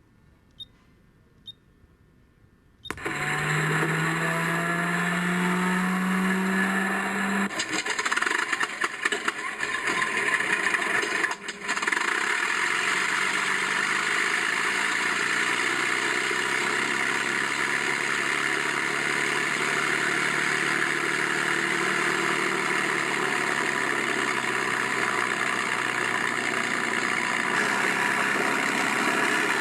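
Simulated Rolls-Royce Merlin V12 engine sound from an RC Mustang's sound card, played loud through two transducers on the model's fuselage. About three seconds in, a starter whine rises in pitch, the engine catches about seven seconds in, runs rough for a few seconds, then settles into a steady idle.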